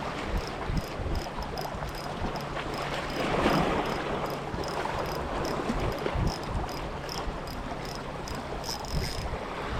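Sea surf washing on a beach, with wind buffeting the microphone and a surge of wash about three and a half seconds in. Over it run high, evenly repeated chirps, a few a second.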